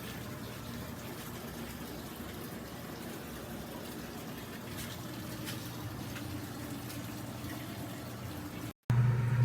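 Water running and swishing in a compact top-load washing machine, with a faint low motor hum under it. Near the end it cuts off abruptly and a louder, steady low hum begins.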